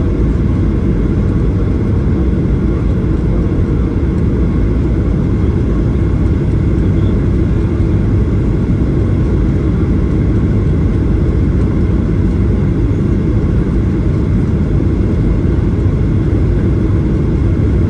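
Steady low rumble inside the cabin of a Boeing 737-800 in flight, from its CFM56-7B engines and the air rushing past the fuselage, heard from a window seat.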